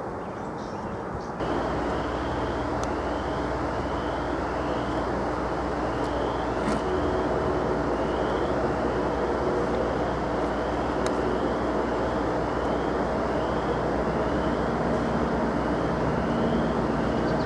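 A VRE commuter train's diesel locomotive approaching the station. From about a second and a half in, its engine runs with a low steady rumble while its bell rings evenly, roughly every three-quarters of a second.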